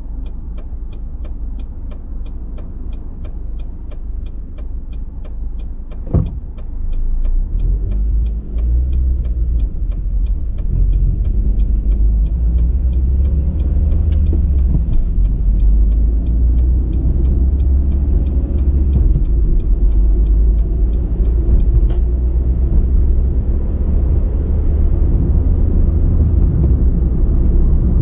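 A car's road and engine noise heard from inside the cabin, growing louder about a third of the way in as the car picks up speed. Over it, the turn-signal indicator ticks steadily and stops near the end. There is a single knock about six seconds in.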